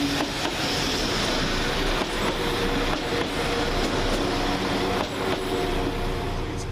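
A train running through the station: a steady running noise with a drone of engine and transmission tones and occasional clicks from the wheels.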